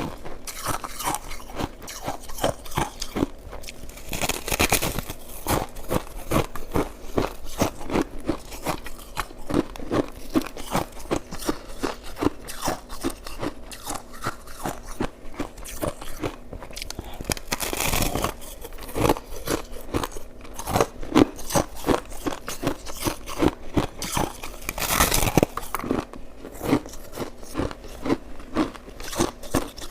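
Close-up crunching and chewing of crushed crystal ice, a quick run of crisp bites throughout, with three longer, louder noisy stretches about 5, 18 and 25 seconds in.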